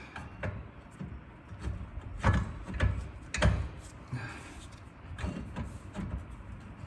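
Metal knocks and scrapes as a 1989 Mustang GT's front brake caliper is worked back into place over the rotor, with three louder knocks about half a second apart near the middle.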